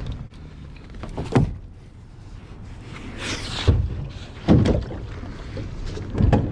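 Knocks and bumps on a fishing kayak as gear is handled aboard, four distinct knocks with a brief swish about three seconds in.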